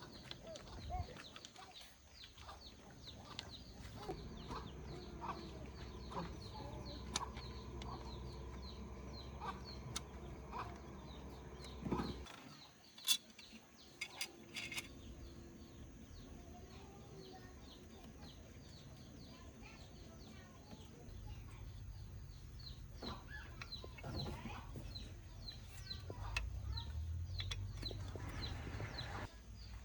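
Birds chirping and a chicken clucking in the background, with scattered sharp clicks and knocks and a low rumble that comes and goes.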